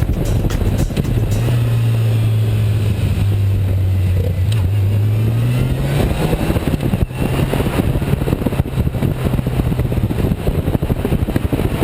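Motorcycle engine running while riding, its low steady note rising a little about five to six seconds in, under a loud rushing noise.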